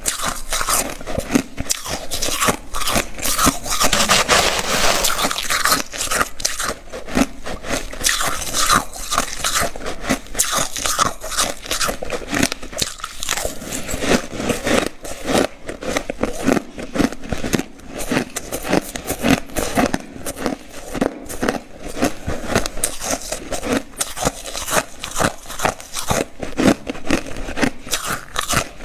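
A person biting and chewing ice, making dense, irregular crunching that goes on without a break.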